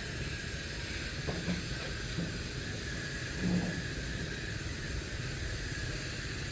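Steady hissing background noise, with a few faint brief low sounds about a second and a half in and again about three and a half seconds in.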